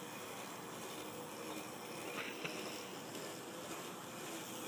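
Faint, steady whine of a Kuberg Start electric kids' motorcycle riding at some distance, over faint outdoor background noise.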